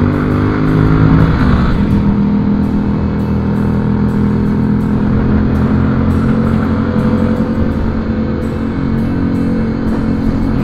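Motorcycle engine running under way, its pitch climbing and then dropping sharply at a gear change about a second and a half in, then holding steady. Music plays along with it.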